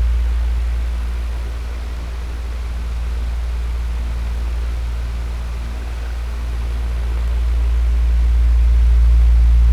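Electric fan running: a steady low motor hum under an even rush of air, slowly easing and swelling again in loudness over several seconds.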